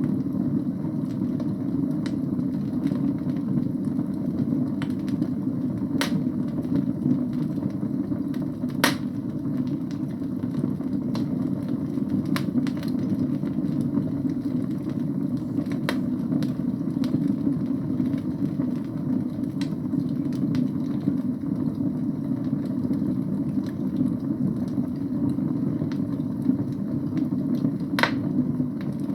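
Wood fire burning in a fireplace: a steady low rush of the flames with scattered sharp pops and crackles from the burning logs, several seconds apart.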